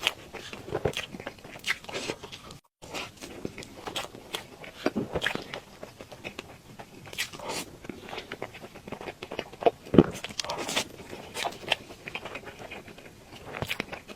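Close-miked eating of cake: irregular bites, chewing and small crunches with wet clicks, one louder snap about ten seconds in. The sound cuts out completely for a moment a little under three seconds in.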